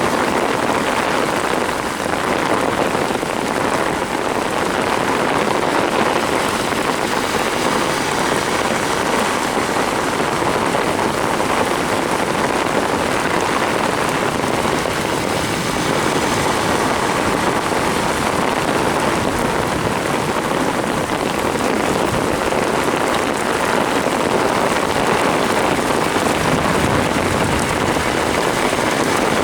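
Torrential downpour: heavy rain falling steadily as a dense, even hiss with no let-up.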